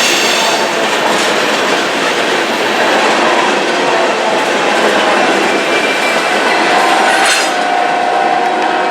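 CSX freight train's cars rolling past, steel wheels running over the rail joints in a steady rush. A thin steady wheel squeal comes in after about six seconds.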